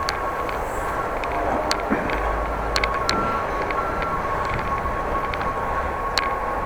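Riding noise of a bicycle on the move: steady wind and tyre rush, with a steady high whine and scattered sharp clicks and rattles.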